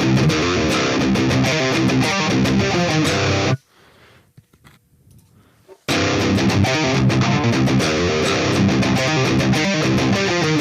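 Electric guitar played through a Line 6 HX Stomp XL amp-modelling preset with its chorus effect switched on: a passage that stops about 3.5 seconds in, then a second passage starting about 6 seconds in.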